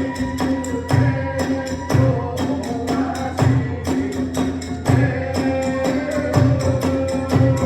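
Kagura hayashi ensemble playing: a large drum struck about once a second, with rapid clashes of small hand cymbals and a bamboo flute holding long notes.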